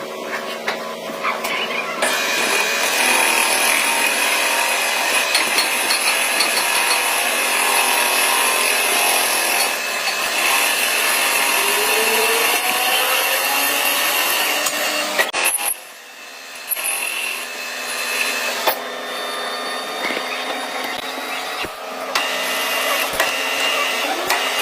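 Manual lathe running while a cutting tool turns a crankshaft: a steady machine hum with a high whine and a continuous scraping cutting noise. The sound drops off briefly about two-thirds of the way through, then resumes.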